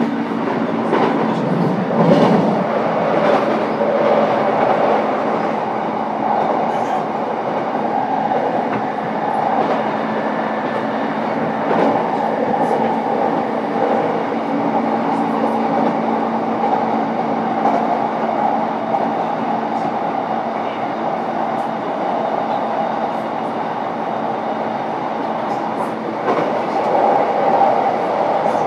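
Running noise heard from inside a JR East E233-7000 series motor car as the train runs at speed: a steady rumble of wheels on rail with scattered clicks. Low steady hum tones from the traction equipment fade away over the first several seconds.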